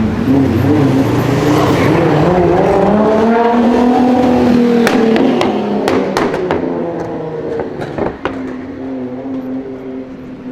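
Nissan GT-R R35's twin-turbo V6 accelerating hard, its pitch rising and then holding. About five seconds in, as the engine comes off load, a run of sharp pops and cracks sounds, and the car then runs on at a steadier, lower and quieter note.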